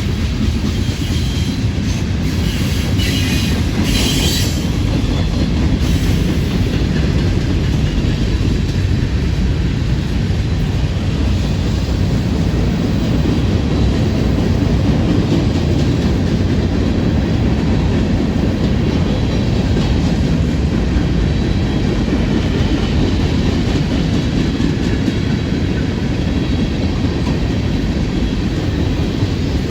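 Freight train rolling past: a steady heavy rumble of railcar wheels on the rails, with a brief high screech of wheels a few seconds in.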